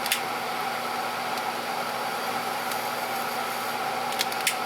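Steady electrical hum and hiss from the electrolysis rig's power supply running at high current. A few sharp clicks come just after the start and again about four seconds in.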